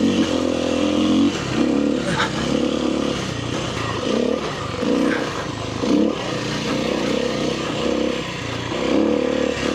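Kawasaki KLX300R dirt bike's single-cylinder four-stroke engine running on the trail, its revs dipping and rising again and again, about once a second, with a couple of sharp knocks.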